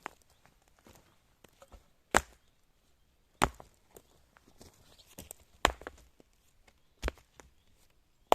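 Four sharp single strikes, spaced irregularly about one and a half to two seconds apart, with small clicks and rustles in between.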